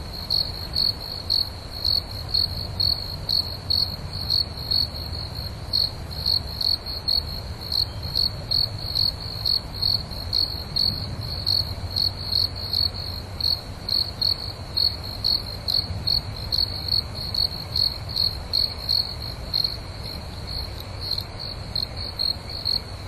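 Cricket chirping steadily, short high-pitched pulses at an even rate of about two to three a second, over a steady low rumble.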